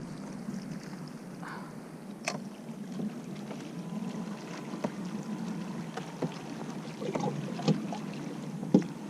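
Water lapping against a fishing kayak's hull, with scattered small knocks and clicks from the boat and gear. The sharpest knocks come near the end.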